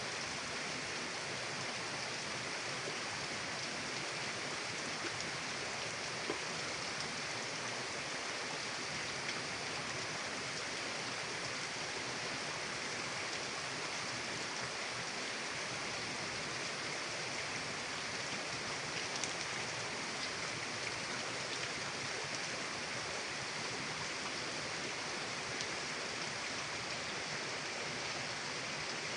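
Mountain river flowing: a steady rush of running water, unchanging throughout, with a few faint ticks and splashes.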